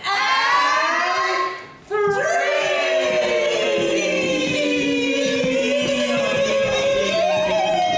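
A group of voices singing together unaccompanied, in long held notes, with a short break for breath about two seconds in.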